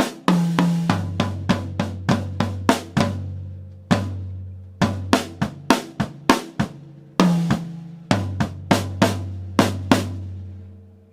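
Drum kit played as a lesson exercise at 100 bpm: steady strokes about three a second across the drums, in short phrases with brief pauses. The playing stops with a final hit near the end and the drums ring out.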